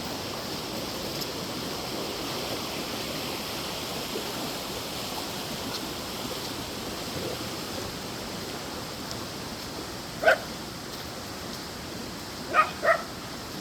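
Steady rush of the flooded creek running high. A dog barks once about ten seconds in, then twice in quick succession a couple of seconds later.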